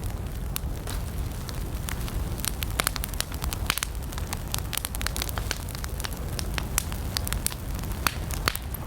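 Wood campfire burning: a steady low rumble of flames with frequent sharp, irregular crackles and pops.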